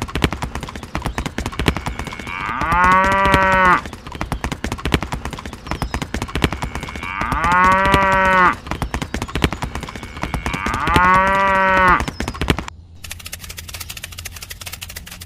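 Cow mooing three times, each moo about a second long, over dense gritty crackling that stops near the end.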